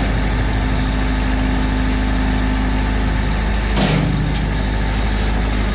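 Engine running steadily at idle, with one sharp knock about four seconds in.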